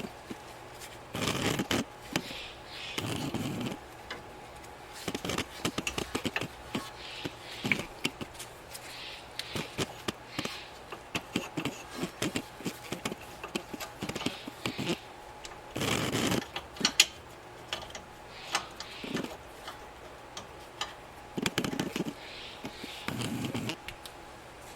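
Hand tools and metal parts clicking, tapping and scraping at irregular intervals while the brake-line bracket bolt is fitted, with a few louder clusters of knocks.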